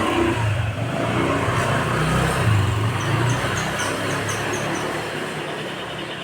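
Steady rumble of road traffic, with a quick run of short, high bird chirps about three seconds in.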